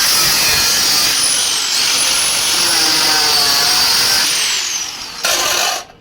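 A power tool running steadily and loudly with a high whine that rises and falls, cutting off abruptly near the end.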